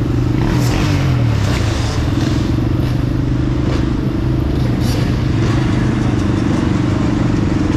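Sur-Ron electric dirt bike riding through city streets, heard from an action camera: a loud, steady hum of wind and road noise with a low drone, and scattered light rattles.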